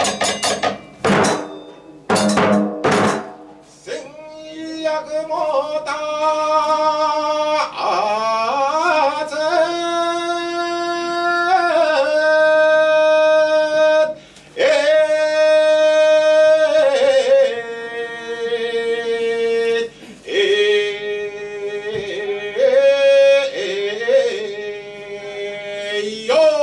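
Kagura music: a few drum strikes near the start, then a male voice chanting in long, drawn-out notes that step up and down in pitch, with percussion under it.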